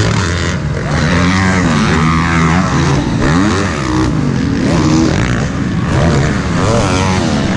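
Several motocross bikes racing around the track, their engines revving up and down over and over as they accelerate and back off.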